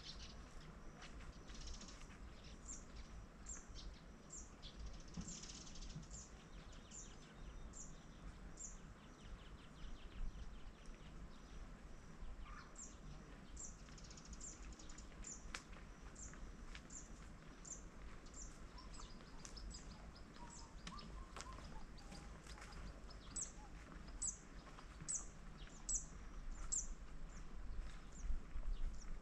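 Wetland ambience: a small bird repeating short, high chirps about two a second, in runs that stop and start. A faint steady low rumble lies underneath.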